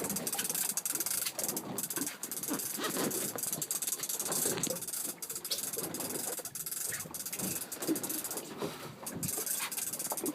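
Steady windy hiss on an outdoor microphone, with scattered knocks and rattles from handling and gear.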